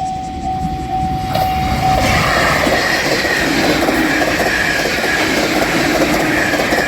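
JR Shikoku 8000 series limited express electric train passing over a level crossing at speed. From about a second in there is a loud rumble and clatter of wheels on the rails, with a high whine. The crossing's warning bell rings at first and is soon drowned out by the train.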